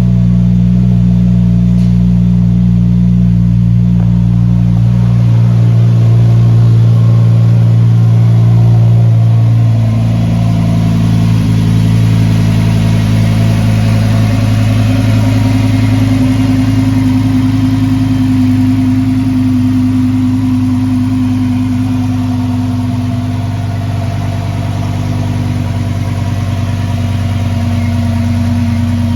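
Lamborghini Huracan Performante's naturally aspirated V10 engine running steadily at idle. Its tone shifts slightly about ten seconds in.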